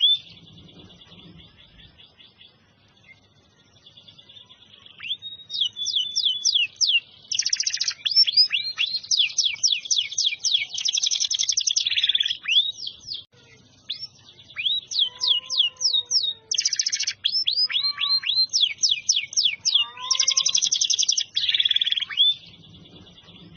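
Canary singing a long, fast song of rapid trills and quick downward-sweeping notes in phrases with short breaks, starting about five seconds in. This is a canary in full song ('gacor').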